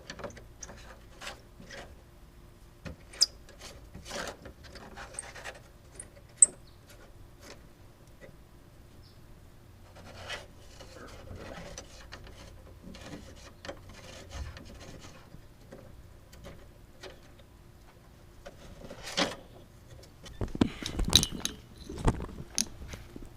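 Scattered clicks and knocks with stretches of rubbing or scraping, as from hands working with tools and surfaces, and a louder clatter of knocks near the end.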